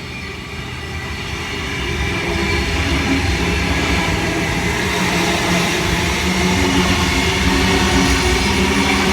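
Sydney Tangara electric train passing through a station. It grows louder over the first two seconds, then holds steady, with the electric motors humming at several steady pitches over the rail noise.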